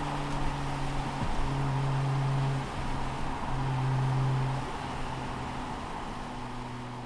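Toyota JZX90's 1JZ straight-six exhaust, the engine running at a steady pitch. It swells louder twice and then settles back, getting quieter near the end.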